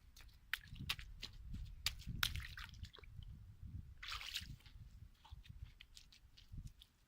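Water sloshing and dripping, with scattered small splashes and clicks and a short louder splash about four seconds in.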